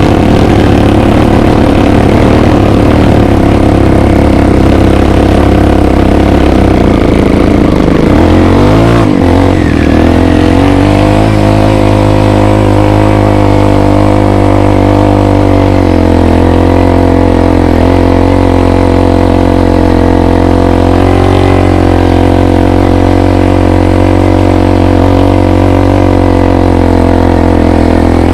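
Dirt bike engine running steadily under throttle while being ridden; about nine seconds in the engine note dips and climbs back up, with smaller changes in pitch later on.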